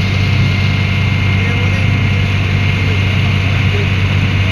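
Passenger ferry's engine running with a steady low drone.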